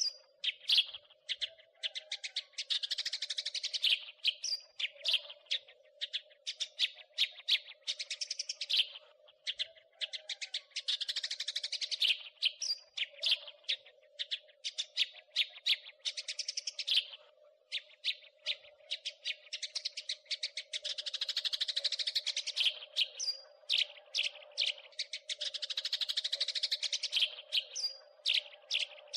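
House sparrow chattering: fast runs of sharp, repeated chirps, some runs blurring into a continuous scolding rattle, over a steady low hum.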